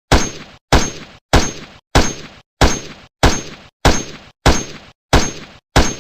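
A weapon impact sound effect looped: one identical sharp hit repeated evenly about every 0.6 seconds, ten times. Each hit starts suddenly and dies away in about half a second before cutting to silence.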